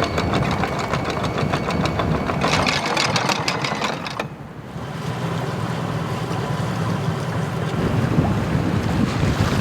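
A sailboat's inboard engine running steadily while under way, with a fine rhythmic chatter, mixed with wind on the microphone. The sound changes abruptly about four seconds in, where the rhythmic ticking gives way to a duller rush of wind and water.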